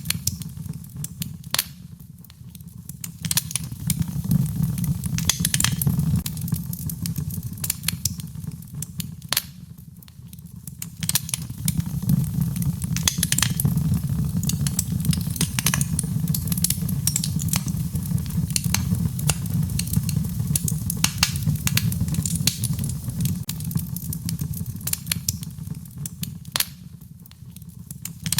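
Wood fire crackling in a fireplace: scattered sharp snaps and pops over a steady low rumble of flame, which dips briefly a few times.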